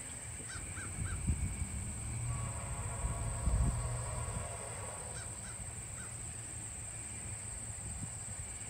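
A bird calling in groups of three short calls, once near the start and again about five seconds in, over a steady high-pitched insect drone and a low rumble.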